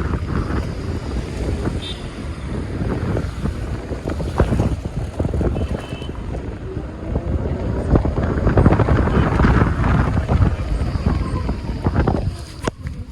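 Wind rushing and buffeting the microphone on a moving electric scooter, mixed with road noise and scattered short knocks from bumps.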